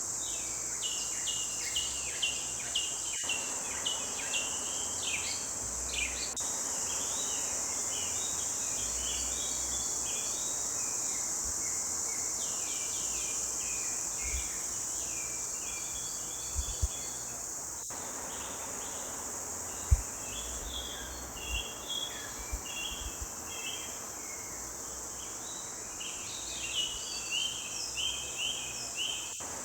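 Forest birds singing in a busy chorus of short chirps and trills over a continuous high insect drone. A few brief low thumps come about two-thirds of the way through.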